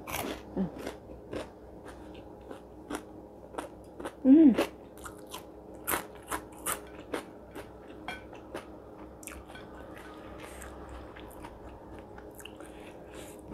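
Close-miked chewing and crunching of crispy batter-fried green chilies with rice: irregular crisp crunches and mouth clicks, with a short vocal hum about four seconds in. A faint steady hum lies underneath.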